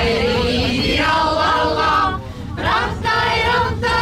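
Choir singing, with several voices holding long notes together and a short break in the singing about two seconds in.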